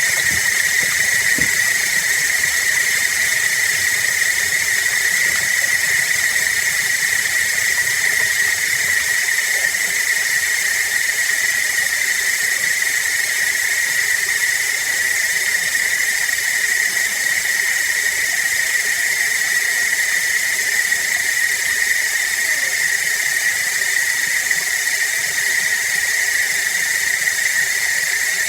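Water sound run through a voice changer effect: a steady, even hiss with a strong high tone held throughout.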